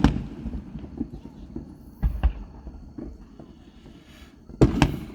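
Fireworks bursting overhead: a sharp bang at the start, two more about two seconds in and another pair near the end, each trailing off in a low rumbling echo.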